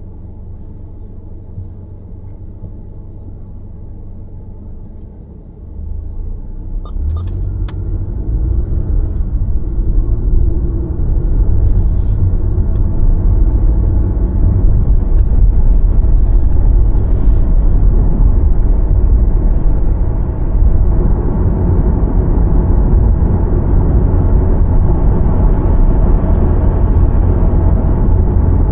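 A car's road and engine rumble heard while driving, growing louder from about six seconds in as the car picks up speed, then staying steady. There are a few faint ticks early on.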